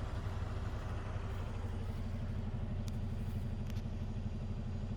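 Semi truck's diesel engine running steadily, heard from inside the cab, a low even drone, with two faint ticks near the end.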